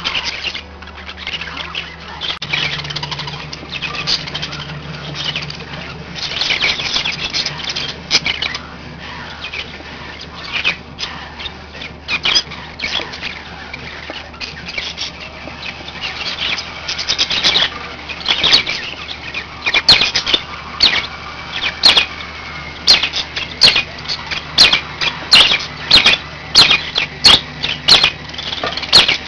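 Budgies chirping and chattering, with many short calls. In the later part, sharp clicks or chirps repeat at about two a second.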